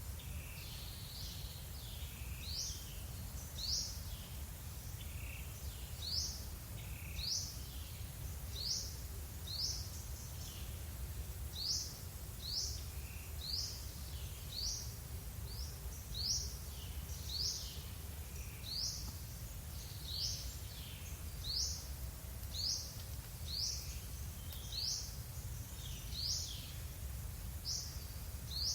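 A bird calling over and over with short, high-pitched chirps, about one a second, over a steady low rumble of background noise.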